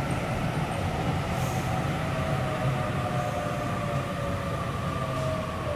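Sydney Trains Waratah (A set) electric train pulling into the platform: a steady low rumble with a faint electric whine that slowly falls in pitch as the train slows.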